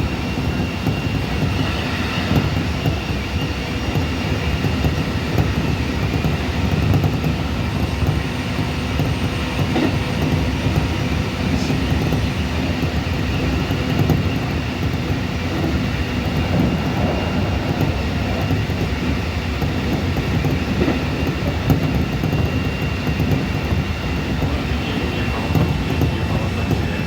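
Keikyu 1500 series electric train with Mitsubishi IGBT VVVF inverter running steadily: an even rumble of wheels on rail with a thin, steady high tone over it.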